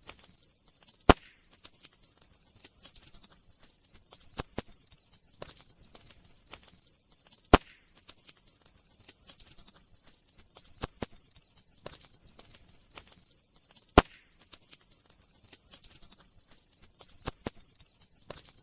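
Campfire crackling: scattered small pops and ticks, with three sharp, louder snaps about six seconds apart.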